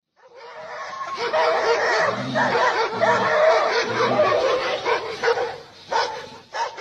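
A dog vocalising continuously for about five seconds, its pitch wavering, followed by a few short sounds near the end.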